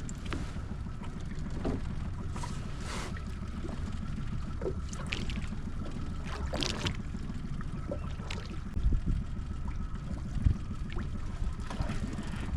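Steady low rumble of wind and water around a small open skiff on the water, with scattered small clicks and knocks.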